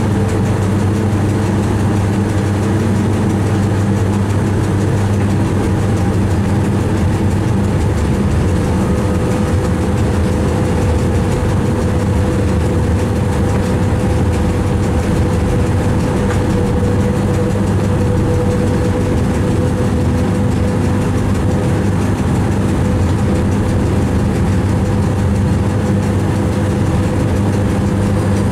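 Steady low hum and running noise of a train heard inside the driver's cab as it travels along the line, with a faint steady whine over it.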